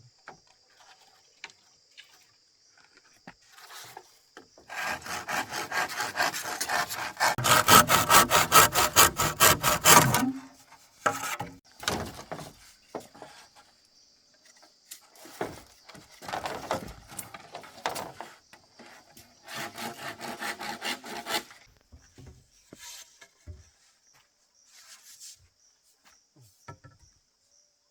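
Hand saw cutting bamboo in three bursts of rapid back-and-forth strokes, the first the longest and loudest.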